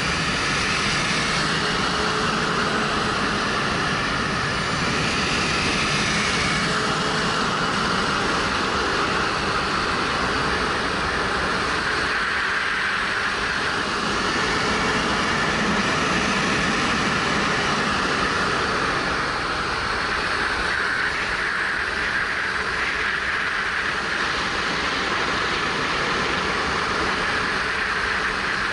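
Suzuki GW250's 248 cc parallel-twin motorcycle engine running at road speed, with steady wind rushing over a helmet-mounted camera's microphone.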